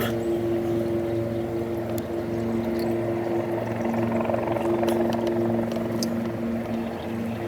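Steady engine hum at a constant pitch, with a few faint light clicks.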